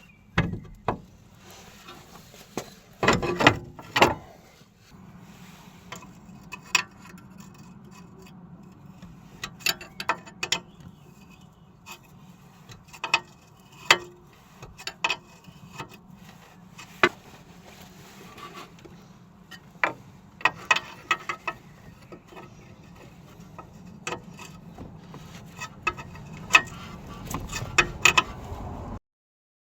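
Scattered metallic clicks and knocks of hand tools working on car suspension parts, irregular and brief, with a faint steady hum underneath. The sound cuts off abruptly near the end.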